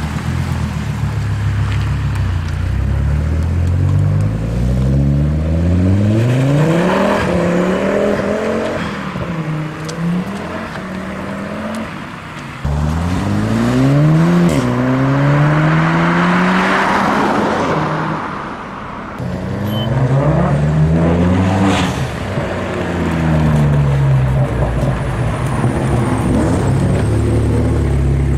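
A series of cars pulling away one after another, their engines revving up through the gears, the pitch climbing and dropping back at each gear change. Near the end one engine holds a steadier note.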